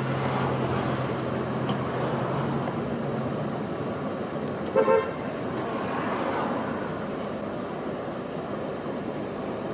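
Street traffic noise, with a car horn giving a brief double toot about five seconds in.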